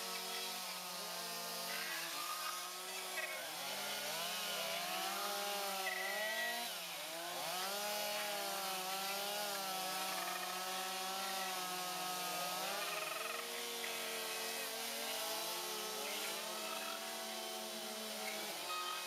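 A small engine revving up and down again and again, its pitch swooping every second or two, over a steady low hum.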